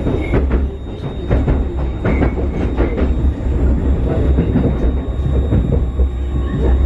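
Cabin sound of a Newag 19WE electric multiple unit: a steady low rumble with irregular knocks, clicks and rattles.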